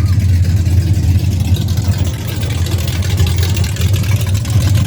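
Car engine running steadily close by, a loud, even low rumble.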